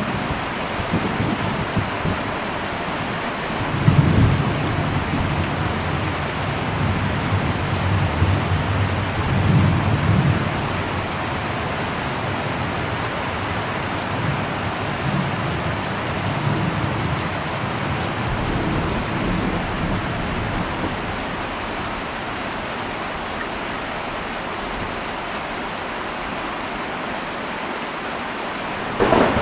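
Heavy rain falling steadily on an old metal roof, with low rolls of thunder swelling about four seconds in, again around ten seconds, and more softly later. A sharper, louder thunderclap breaks right at the end.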